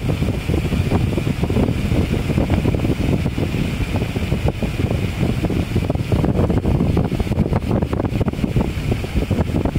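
Wind buffeting the microphone of a camera on a bicycle riding downhill, a steady loud rush with constant flutter.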